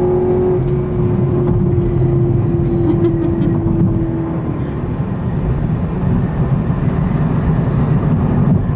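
Cabin sound of a 2021 Camaro SS 1LE being driven: its V8 holds a steady drone that fades out about four seconds in, leaving a low, continuous engine and road rumble.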